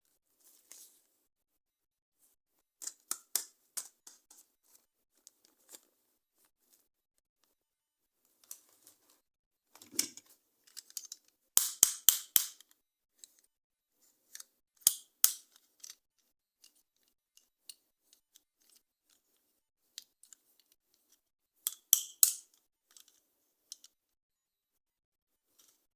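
Toys and their packaging being handled: scattered sharp clicks and short crackly clusters with quiet gaps between, the loudest run about halfway through and another near the end.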